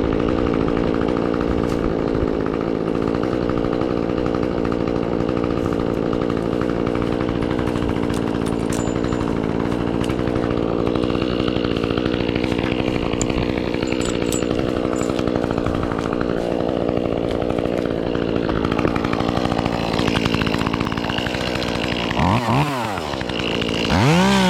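Echo CS-2511T small two-stroke top-handle chainsaw idling steadily, then revved twice near the end, its pitch rising and falling quickly each time.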